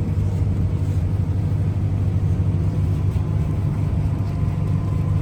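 Tour boat's engine running steadily at low cruising speed, a constant low hum.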